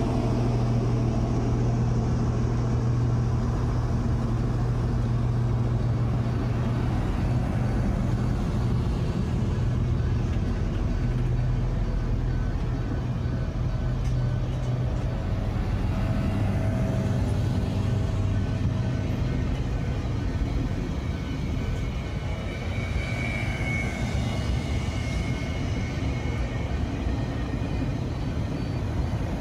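Spirit of Queensland diesel tilt train rolling past the platform, its carriages moving by with a steady low hum and running noise.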